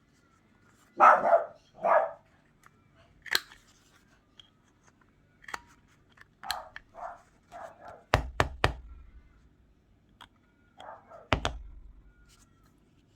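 A dog barking repeatedly, loudest in two barks near the start, with several sharp clicks and thuds from a paper corner-rounder punch, three in quick succession past the middle.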